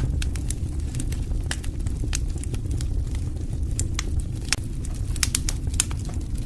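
Wood fire burning in a fireplace, a steady low rumble of flames with frequent irregular crackles and sharp pops from the burning logs, several pops coming close together near the end.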